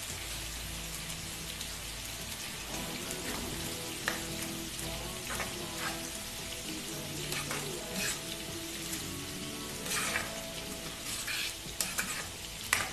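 Onions, garlic and chopped tomatoes sizzling in hot oil in a nonstick kadai, as a silicone spoon stirs in the spice mix. The spoon scrapes and taps against the pan several times from about four seconds in, loudest near the end.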